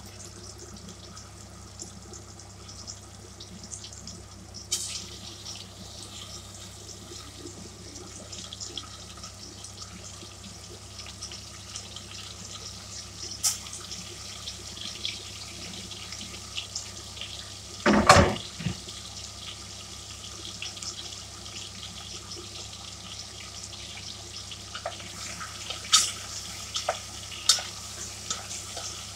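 Sliced ginger and garlic frying in oil in a pot, a steady sizzle with crackles, as pieces of chicken go in. One brief loud burst about two-thirds of the way through, and sharper crackles near the end.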